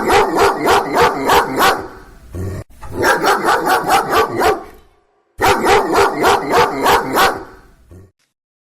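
A dog barking in quick runs of about four barks a second, three runs with short pauses between them, stopping shortly before the end.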